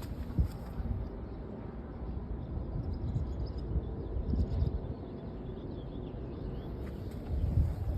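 Wind buffeting the microphone as an uneven low rumble, with a few thumps of footsteps.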